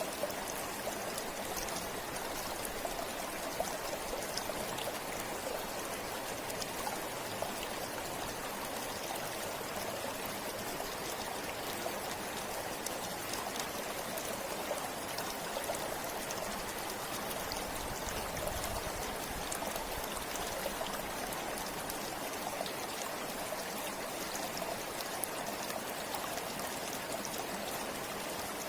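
Forest river flowing: a steady rush of water over stones, with small splashes and trickles.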